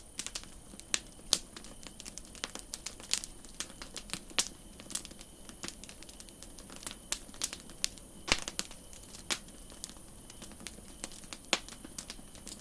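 Campfire crackling: irregular sharp pops and snaps of wood burning, some louder than others, over a faint steady hiss.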